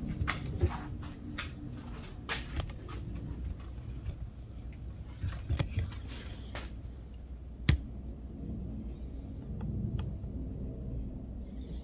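Light, irregular hammer taps on a steel bolt being driven into a small aluminium hose fitting to expand it, a handful of knocks with the sharpest about two-thirds of the way through, over a steady low rumble.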